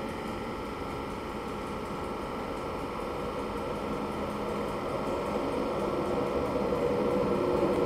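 Steady hum of a standing Class 91 electric locomotive, with the rumble of a second train approaching on the next line growing louder over the last few seconds.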